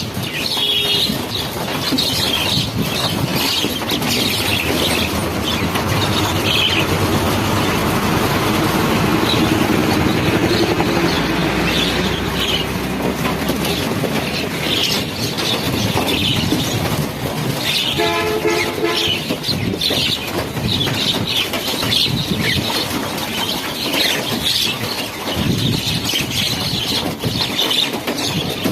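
A large flock of birds chirping over a steady, loud rushing noise, with a short pulsed call about two-thirds of the way through.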